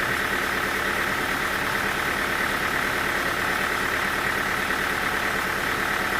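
Sawmill machinery running steadily, a continuous engine-like drone that holds the same pitch and level throughout.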